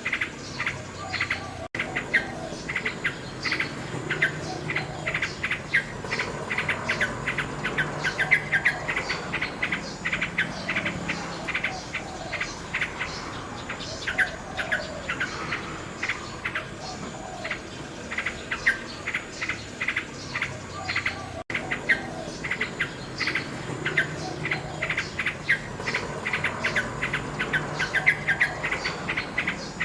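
Common nightingale singing, rapid trains of repeated chirps and whistles, over a steady chirping of insects. The sound cuts out for an instant twice.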